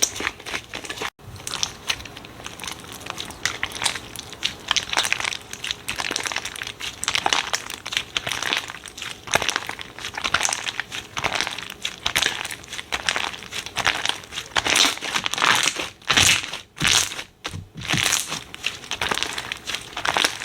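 Slime being squeezed and worked by hand, giving a dense run of irregular crackling, crinkling sounds.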